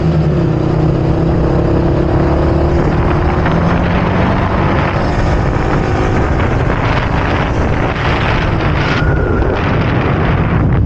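Yamaha R15's single-cylinder engine running at speed while the bike is ridden through corners, buried under heavy wind noise on the helmet-mounted microphone.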